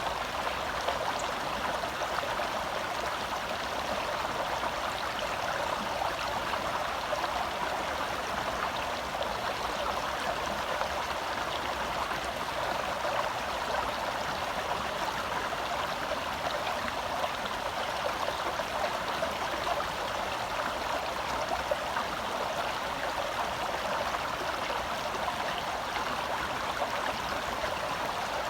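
Forest stream flowing over rocks: a steady rush and babble of water.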